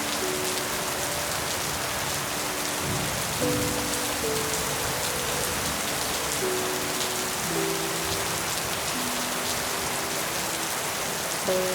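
Steady rain falling on leaves by the eaves, with a soft, slow melody of held notes changing every second or two underneath.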